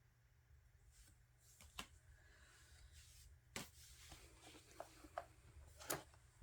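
Near silence with faint handling of album contents: a few light clicks and taps and soft rustles of photocards and paper, over a steady low hum.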